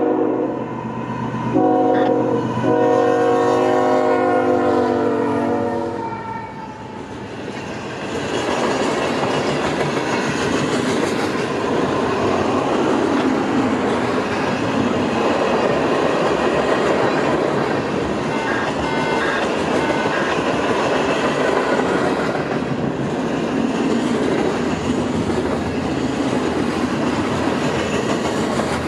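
Diesel locomotive's multi-note air horn sounding, a short break and then a long blast ending about six seconds in. Then a train passes close by, with a steady rolling rumble of wheels and rail clickety-clack.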